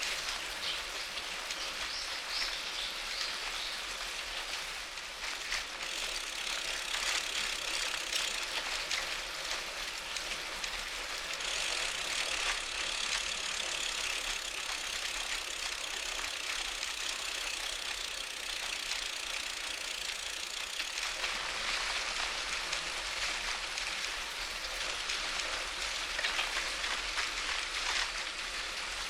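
Bicycle riding noise: tyres rolling on pavement and air rushing past a bike-mounted action camera, heard as a steady hiss.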